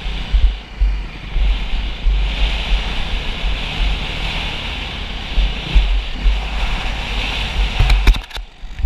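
Wind rushing over the microphone of a camera on a moving motocross bike, with low buffeting thumps. Near the end there are a few sharp clicks and the noise briefly drops away.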